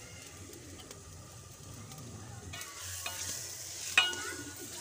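Masala and freshly added grated turnip sizzling in a metal pot as a steel ladle stirs them. The sizzle swells about halfway through, and near the end the ladle strikes the pot once with a sharp, ringing clank.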